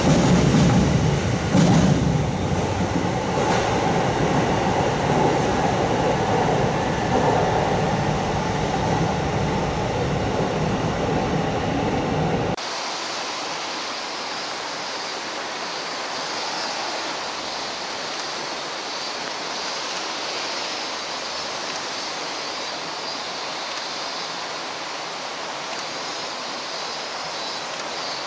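E129-series electric multiple unit pulling out of an underground station platform in a tunnel, its running noise slowly easing as it moves away. About halfway through it cuts abruptly to a quieter steady hiss outdoors as the same kind of train approaches along the line.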